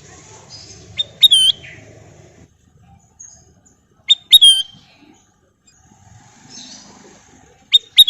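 Kutilang emas bulbul calling: three short, loud phrases about three seconds apart, each a couple of sharp clipped notes and then a bending whistled note.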